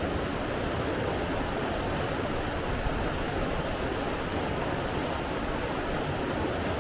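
Steady, unbroken rush of flowing water, an even roar with no rise and fall.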